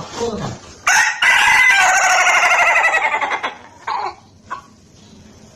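Ayam Ketawa (laughing chicken) rooster crowing. A short note is followed by a long crow of about two seconds, broken into a fast stuttering run of pulses like laughter and sliding slightly down in pitch. A brief final note comes about a second later.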